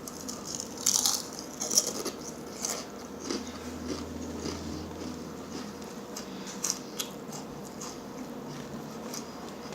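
Close-miked eating: crisp bites and crunching, loudest about one and two seconds in, then quieter chewing with scattered small clicks.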